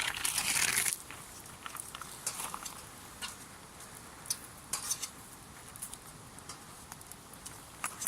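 Wood campfire crackling with scattered small pops, after a brief rustling hiss in the first second.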